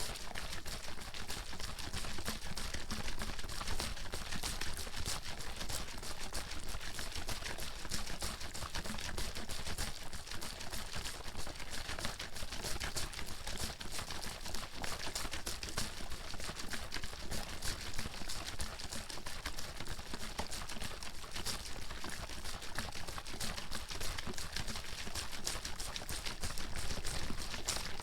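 Water bottle being shaken fast and without a break, the water sloshing and splashing inside it in a dense, steady rattle.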